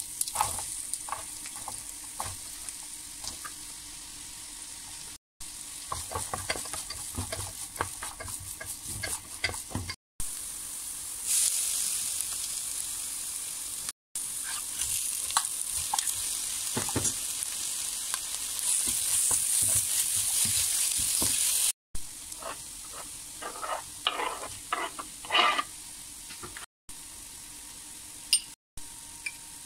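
Onion, then chicken with spices, frying in oil in a pan: a steady sizzle, with the scrape and tap of a spatula stirring in clusters. The sound breaks off briefly several times between short clips.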